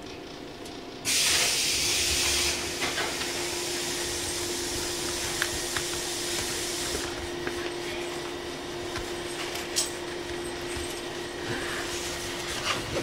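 Running noise aboard a JR 115 series EMU, with a sudden loud rush of hissing noise about a second in that stays loud for a second or so and then eases back over the next few seconds. A steady tone comes in from about two seconds in.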